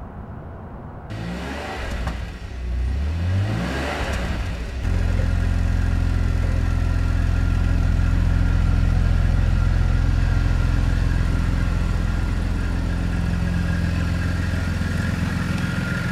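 A car engine revs, rising in pitch over the first few seconds, then settles at about five seconds into a steady, low, even running drone.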